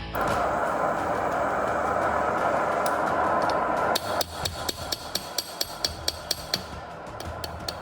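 A steady rushing noise for about four seconds, then a hammer forging the steel kukri blank: sharp ringing blows, about three a second.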